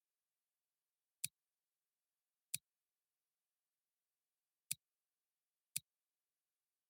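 Four short, sharp clicks at uneven spacing, a second or two apart, with dead silence between them.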